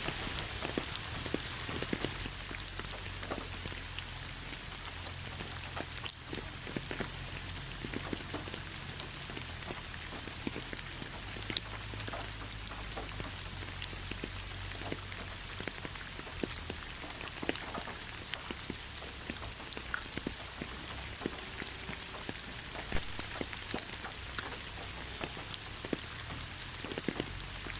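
Steady rain falling, a constant hiss with many individual drops ticking close by at irregular moments.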